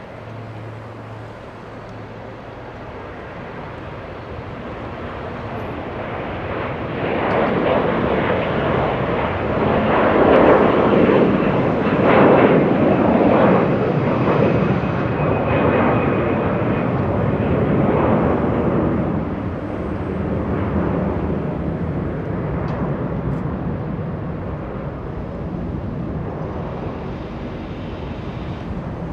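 Jet airliner's engines passing close by: a broad roar that swells about a quarter of the way in, is loudest around the middle, then slowly fades.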